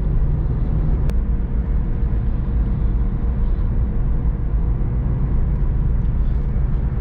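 Road and engine noise inside a moving car: a steady low rumble with tyre hiss, and a brief click about a second in.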